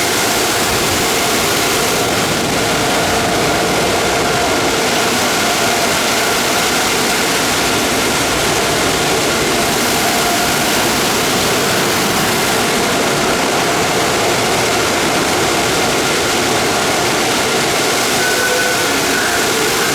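Car wash air dryers blowing on the car, a loud steady roar with a faint whine running through it, heard from inside the car.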